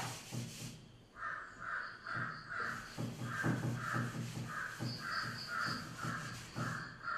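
A bird calling in a steady series of short, evenly spaced calls, two to three a second, starting about a second in.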